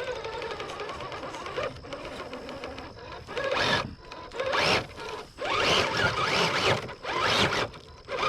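Traxxas TRX-4 Sport RC crawler's electric motor and geared drivetrain whining, first at a steady low crawl. About three seconds in come several short, louder bursts of throttle, the pitch rising in some of them.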